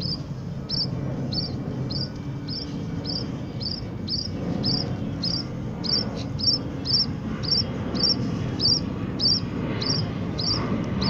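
A small piit bird chirping over and over in a steady rhythm, about two and a half short high chirps a second, over a low background murmur.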